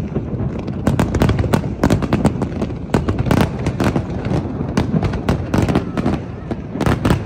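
Fireworks finale: rapid, overlapping bangs and crackles from many shells bursting at once, in dense volleys with a few brief lulls.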